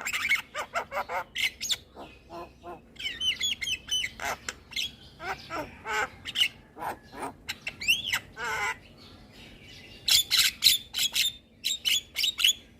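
Javan myna singing: a fast, varied run of short whistles, chattering notes and harsh squawks, with a brief pause near the end.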